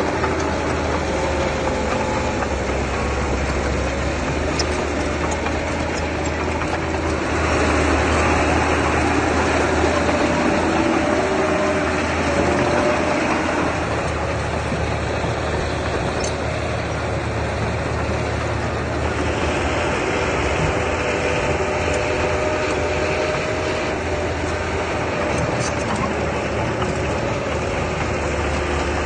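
Heavy earthmoving machine's engine running steadily, rising in level for a few seconds about seven seconds in.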